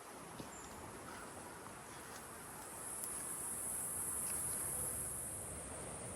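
Steady high-pitched drone of rainforest insects, swelling louder about halfway through, over a low rushing background noise.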